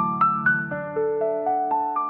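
Background music: gentle piano or electric piano playing a steady run of single notes, about four a second, in rising arpeggios.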